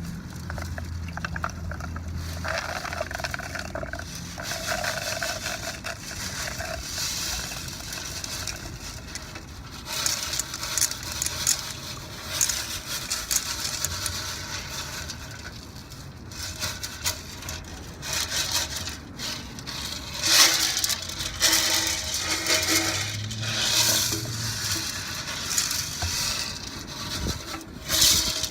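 Steel BBs rattling, clinking and scraping inside a metal motorcycle gas tank as it is tipped and worked to empty it, in irregular bursts that get busier partway through. The BBs have been shaken in the tank to knock loose rust and flaking lining.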